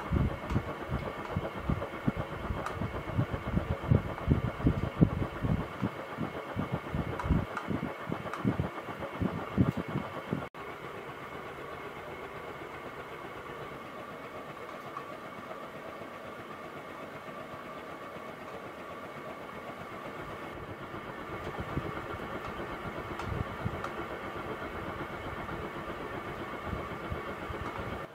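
Roshan CP56-1 ceiling fan running at its second-highest speed with a steady motor hum. For the first ten seconds or so its air moves in gusts and rumbles; that stops abruptly, leaving only the even hum.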